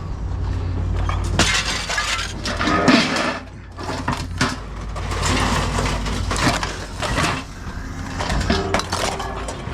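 Irregular clattering and clinking of scrap metal pieces being handled and tossed, many sharp knocks throughout.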